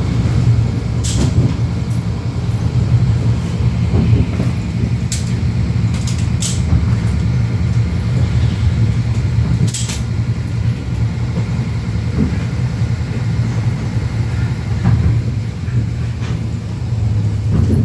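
Passenger train running, heard from inside the carriage: a steady low rumble, with a handful of short sharp clicks.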